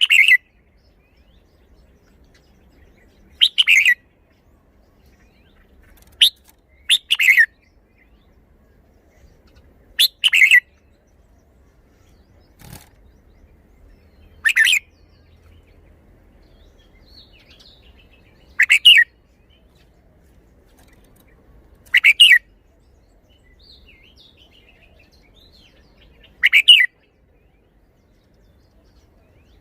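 Red-whiskered bulbul singing short, loud warbled song phrases, one about every three to four seconds, with quiet between.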